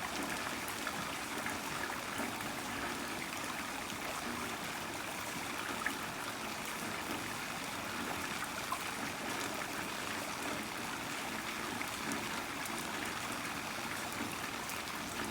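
Heavy rain falling steadily, an even hiss flecked with scattered drop ticks.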